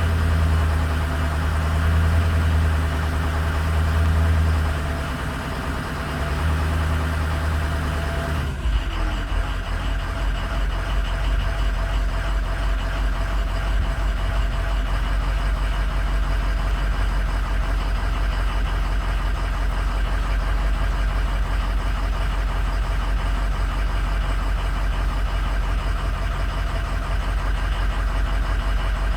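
Ford 6.0 Power Stroke V8 turbodiesel running at a raised idle during a cylinder contribution test, dipping briefly about five seconds in, then dropping back to a lower steady idle about eight seconds in. The engine has failing injectors in cylinders 2, 5 and 7.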